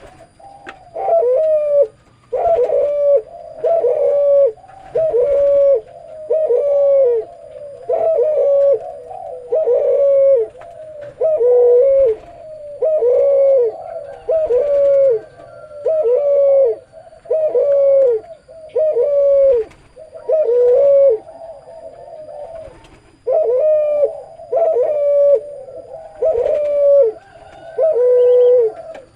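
A cuhu, a hybrid of a spotted dove and a ringneck dove, cooing over and over in a low, deep voice. The short phrases come about one a second, each ending on a falling note, with a brief pause a little past the middle.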